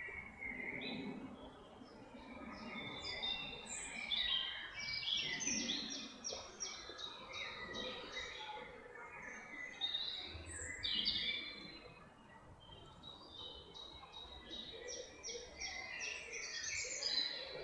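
Several songbirds singing at once in a forest chorus: overlapping songs of fast trills and rapidly repeated high notes, over a faint steady background of outdoor noise.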